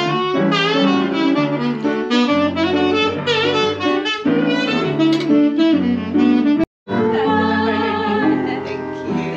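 Jazz music led by a saxophone, with a full band underneath; the sound drops out completely for a moment about two-thirds of the way through, then resumes.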